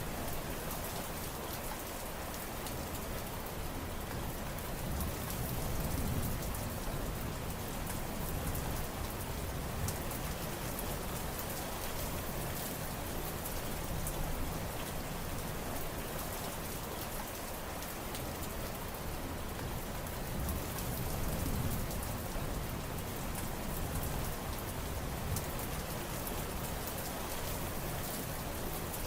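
Steady rain falling, a dense hiss of drops with fine patter, swelling slightly and easing again a few times.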